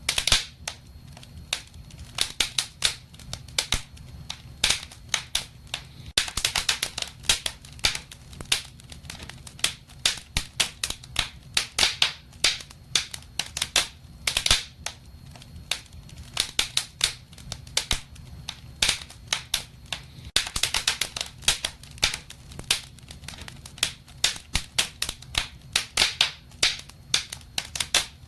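Wood fire crackling in a fireplace: irregular sharp pops and snaps, several times thicker in short flurries, over a faint steady low rumble.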